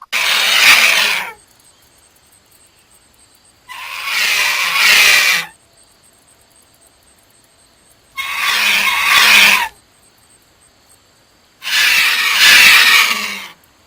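A bird giving a harsh, screeching call four times, each call about a second and a half long, with pauses of two to three seconds between.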